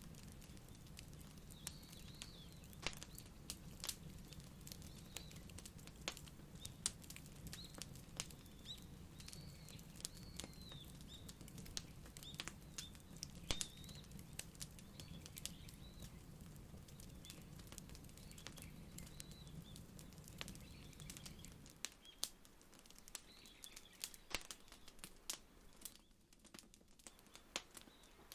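Wood fire crackling, with frequent irregular sharp pops and snaps over a low rumble that stops suddenly about three-quarters of the way through.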